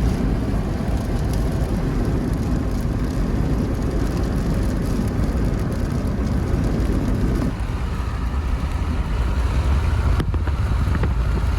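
Car driving, with steady road and wind noise and a heavy low rumble; the rumble eases a little about two-thirds of the way through.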